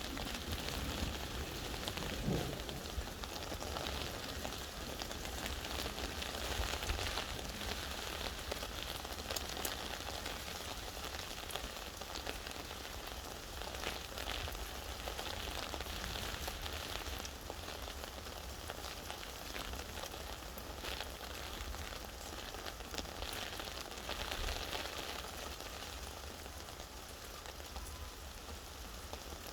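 Steady rain falling, with the hiss swelling and easing a little and single drops ticking now and then.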